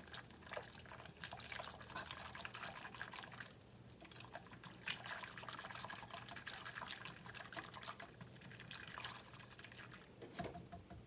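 Milk, half and half and melted butter in a pan on the stove, coming back up to temperature: liquid sounds with a dense run of small pops and crackles.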